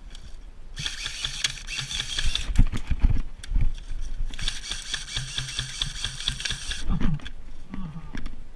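Airsoft guns firing on full auto: two long bursts of fast, even clicking, the second about a second and a half longer than the first, with low knocks and bumps on the microphone in between.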